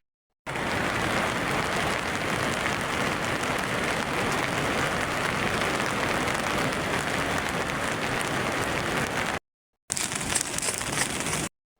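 Heavy rain falling steadily, a dense even hiss, broken by brief silent gaps where the recording cuts.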